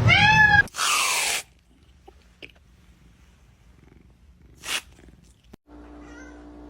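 A cat gives one short meow that rises and falls, followed at once by a brief rushing, hiss-like noise. After that there are only faint clicks, and a low steady hum starts near the end.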